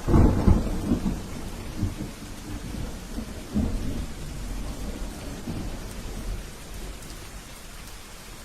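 A thunderclap breaks suddenly and rumbles low, with a second crack about three and a half seconds in, then fades away over steady rainfall.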